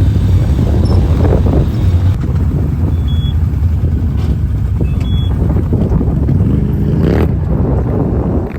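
Off-road ATV or UTV engine running under load with steady rumble, revving up briefly about a second in and again near the end. Two short high beeps sound in between.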